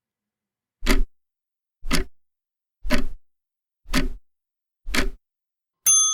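Countdown timer sound effect: five clock ticks about a second apart, then a bell ding near the end that rings on and fades.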